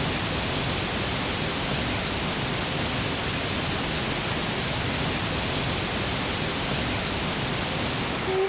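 Water rushing over rocks: a loud, steady rush without let-up.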